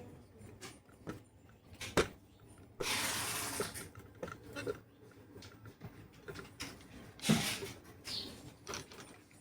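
Handling noises from opening a harmonium's wooden case: scattered knocks and clicks, with a rubbing noise lasting about a second starting about three seconds in and a shorter one about seven seconds in.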